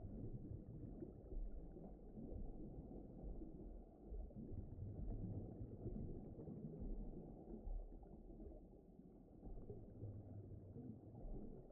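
Low, muffled ambient rumble, deep and dull with nothing bright in it, gently swelling and easing every couple of seconds.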